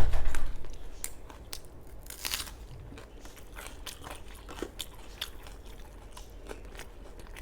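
Close-miked mouth sounds of eating: chewing and biting crunchy food, with many short wet clicks and crunches. A loud low thump comes right at the start.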